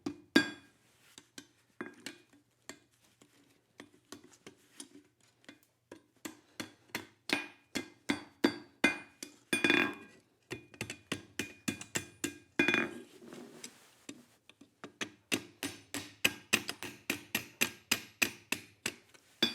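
Hand hammer striking hot steel on an anvil, bending over the small tabs of a forged fork. The blows come in uneven runs of quick strikes, each with a short metallic ring, with a brief pause about two-thirds through.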